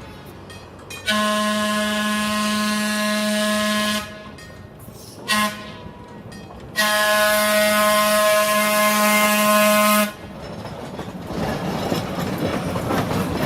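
Locomotive air horn sounding the grade-crossing signal: two long blasts with a short toot between them, the end of the long-long-short-long pattern as a train approaches a crossing. The rumble of the approaching train rises near the end.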